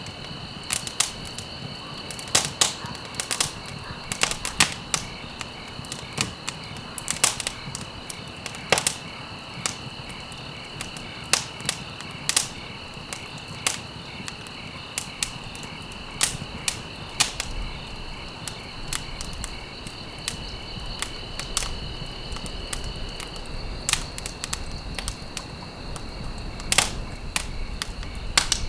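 Wood fire burning in a fireplace: irregular sharp crackles and pops over a low steady hiss, with a faint high steady tone underneath that stops about five seconds before the end.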